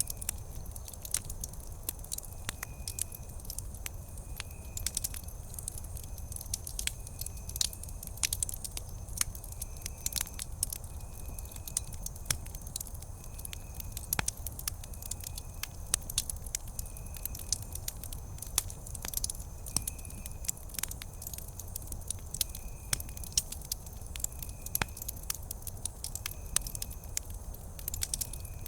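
Wood campfire crackling steadily, with many sharp pops and snaps over a low rumble of the flames. A faint short high chirp repeats about once a second behind it.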